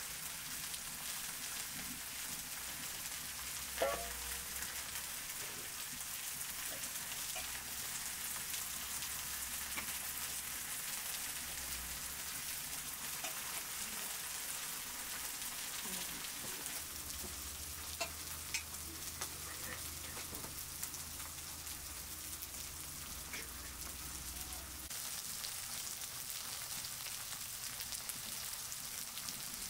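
Meat patties, tomato slices and potato slices sizzling steadily in oil on a large round griddle over a wood fire. A sharp knock comes about four seconds in, and a couple of brief clicks follow about halfway through.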